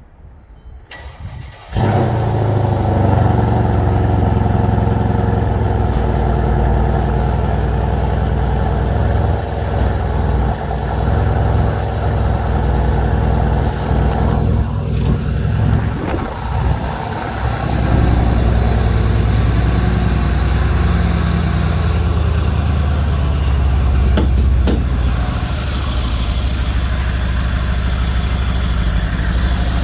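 2014 Mercedes-AMG E63 S twin-turbo V8 cold start: a short crank about a second in, then the engine catches with a sudden loud burst and runs on at a fast, steady cold idle. The level drops a little about 25 seconds in as the idle settles.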